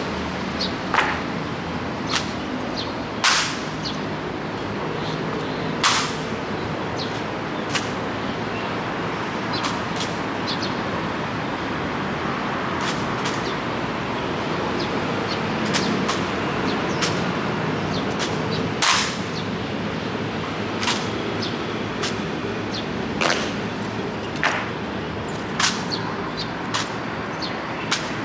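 Steady rain hiss, with sharp, irregular clacks about every one to two seconds.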